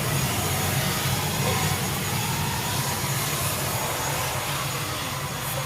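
Steady drone of aircraft engines running, a low hum under a constant hiss with a thin high whine.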